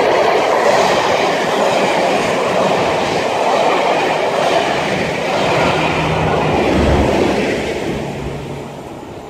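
Passenger train's coaches running past at speed, a loud steady noise of wheels on rail; it fades as the end of the train draws away about eight seconds in.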